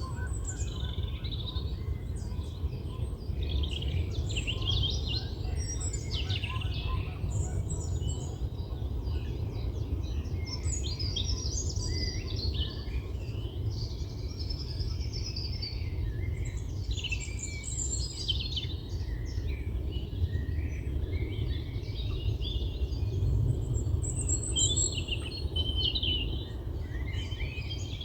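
Several small birds singing and calling at once, a dense run of chirps and trills with no break, over a steady low rumble.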